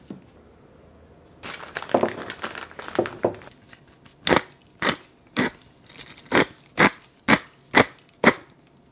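Cooked chicken gizzards being chewed, firm and crunchy: eight sharp, even crunches about twice a second, starting about four seconds in. They follow a couple of seconds of crackling and rustling.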